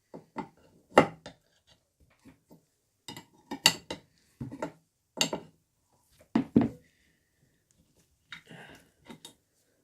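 A spanner and small metal drill-press parts clinking and knocking on the bench while a tight nut is worked loose: a string of sharp clinks, the loudest about a second in.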